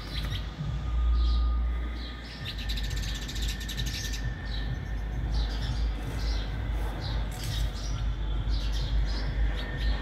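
Small birds chirping over and over in short calls, with a fast buzzy trill about two and a half seconds in. A low rumble underneath is loudest in the first two seconds.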